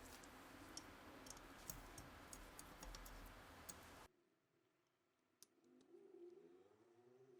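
Near silence: faint low room noise with scattered small clicks, cut off abruptly about four seconds in, followed by one more faint click.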